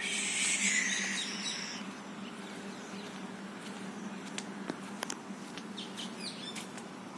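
Birds chirping and calling: a busy burst of calls in the first two seconds, then scattered short chirps, over a faint low steady hum.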